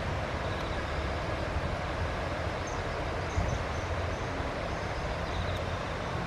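Steady outdoor background noise: an even low rumble without a clear rhythm or change. A few faint, short high chirps show about three seconds in and again near the end.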